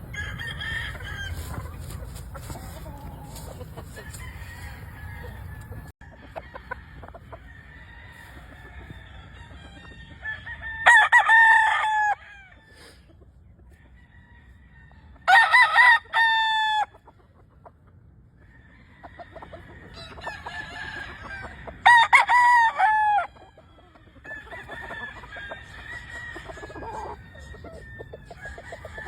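Gamefowl roosters crowing: three loud crows spread through the stretch, with quieter clucks and more distant crowing between them. A low hum sits under the first few seconds and stops abruptly.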